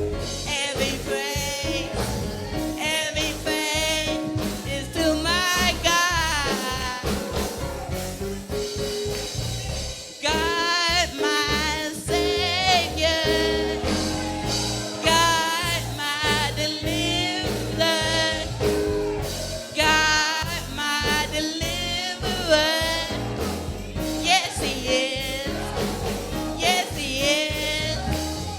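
Gospel singing with instrumental accompaniment and a steady beat; the lead voice sings with heavy vibrato.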